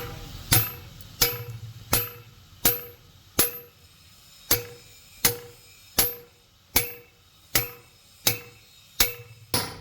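A hammer striking metal in a steady series of blows, about one every three-quarters of a second. Each blow carries a short metallic ring.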